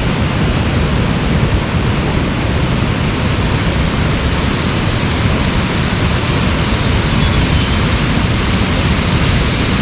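Loud, steady rushing noise with no clear events in it.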